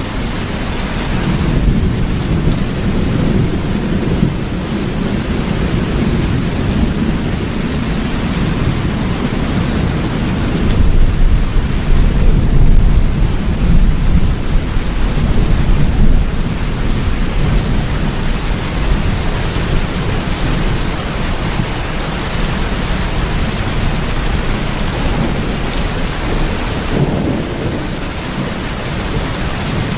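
Steady heavy rain with a deep rumble of thunder beneath it, swelling louder about eleven to sixteen seconds in.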